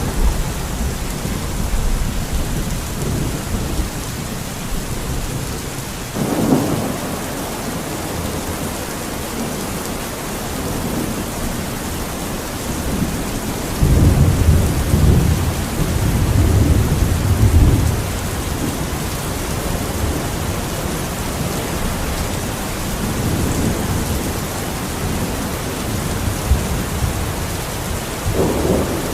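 Steady heavy rain with rolls of thunder: a rumble swells about six seconds in, and a longer, louder roll runs from about halfway through for some four seconds.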